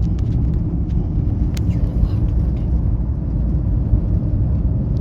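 Steady low rumble of a moving vehicle's cabin noise, with a few faint clicks.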